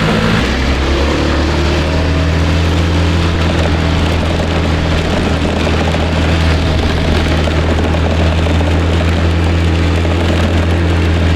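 Small rented motor scooter running at a steady speed while being ridden, its engine a constant low drone, with wind rushing over the microphone.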